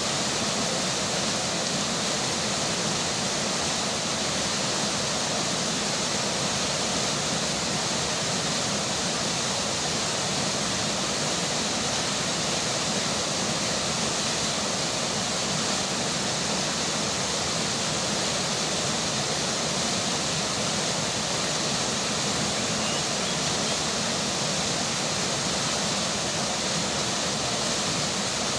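Steady, unbroken rush of a flowing river with rainfall.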